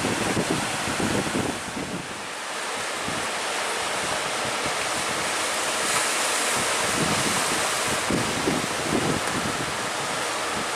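Strong wind buffeting the microphone in irregular gusts over a steady rush of sea surf.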